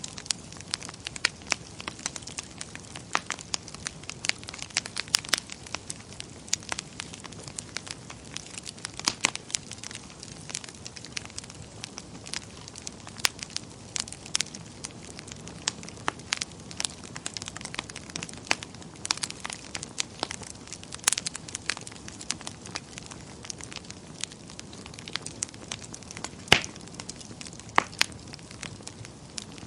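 Wood fire burning, with frequent irregular sharp crackles and pops over a low steady hiss.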